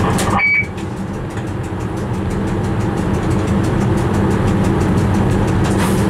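Running noise inside a train driver's cab: a steady rumble with a low hum. A short high beep sounds about half a second in. Just after it the noise drops, then slowly builds again.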